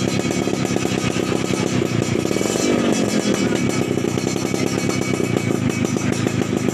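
Yamaha F1ZR's two-stroke single-cylinder engine running through an RTX aftermarket racing exhaust, a fast, even stream of exhaust pulses, briefly louder about halfway through.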